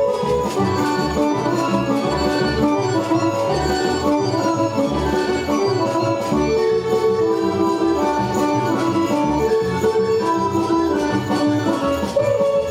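Serbian folk music played on instruments, with melodic lines over a steady pulsing bass beat.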